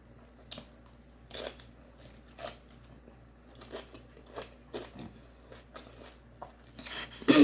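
Close-up mouth sounds of eating a taco: scattered, irregular crunches and wet chewing clicks, with a louder burst near the end.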